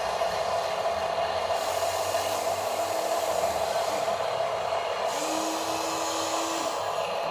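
Electric motor and plastic gearbox of a radio-controlled dump truck whirring steadily. A second, lower tone joins for about a second and a half past the middle.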